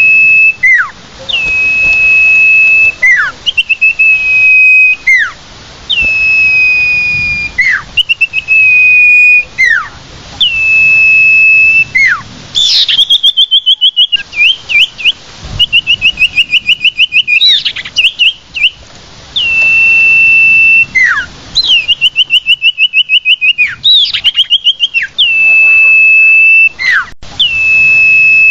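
Common iora (sirtu, cipoh) song. Long, level whistles come about every two seconds, each opened by a sharp downward-sweeping note. Between them come several fast, rapid trills.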